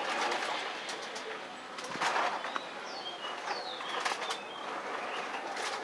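Small birds chirping a few short, falling notes over steady outdoor background noise, broken by a few sharp clicks, the loudest about two seconds in.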